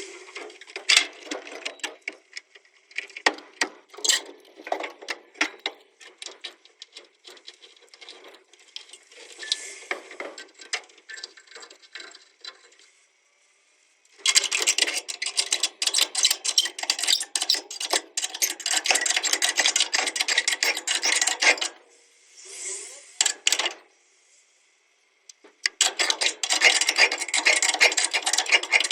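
Scraping and rasping of a hand tool working on metal, with light metallic clinks, in spells of several seconds with short pauses between.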